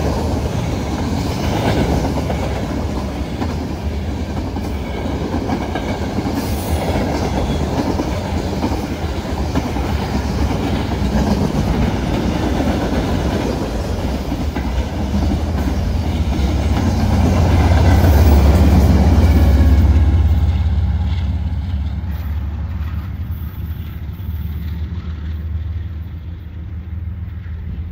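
Freight train of covered hopper cars rolling past close by: steady wheel clatter and clickety-clack over the rail joints with a deep rumble. The rumble swells to its loudest a little past halfway, then the sound fades as the train moves off.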